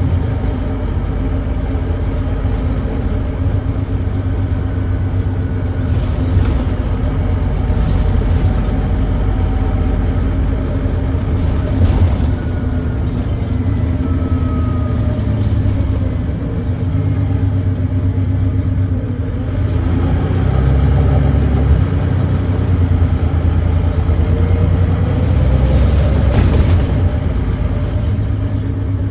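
Volvo D9B six-cylinder diesel engine of a Volvo B9TL double-decker bus running on the move through its ZF Ecolife automatic gearbox, with an exhaust leak. Its low drone steps up in loudness about two-thirds of the way through as it works harder on a hill climb, with a few brief clicks and rattles along the way.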